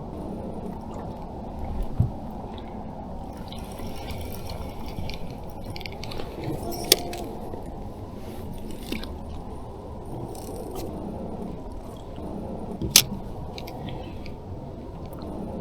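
Water lapping and slapping against a fishing boat's hull over a steady low rumble, with three sharp clicks spread through it.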